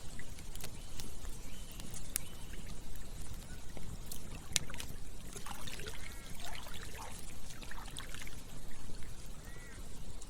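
Campfire crackling with scattered sharp pops, over the steady trickle and gurgle of flowing stream water. A cluster of short, wavering high sounds comes around the middle.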